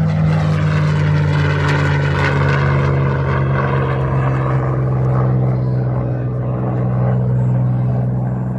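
Propeller airplane engine droning as it passes, a loud low hum that sinks slightly in pitch, with a rush of noise loudest about two seconds in.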